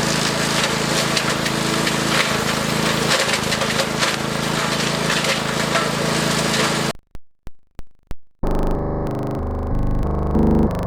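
Wood chipper running with branches being fed through, a steady engine hum under dense cracking and splintering. About seven seconds in it cuts off abruptly; after a few clicks, electronic music starts.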